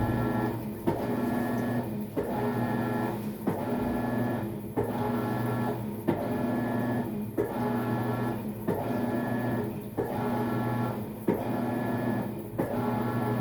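Maytag MVWX655DW1 top-load washer agitating during its tub-clean cycle: the drive motor hums through back-and-forth strokes about one every 1.3 seconds, each starting with a light click.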